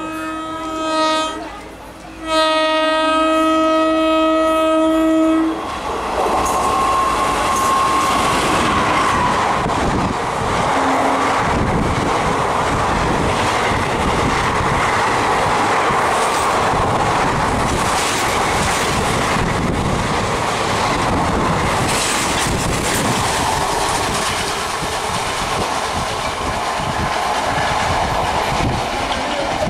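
Express train horn sounding two blasts, a short one and then a longer one of about three seconds, followed by the train passing at full speed: a loud, steady rush of wheel and air noise with the clicks of wheels over rail joints.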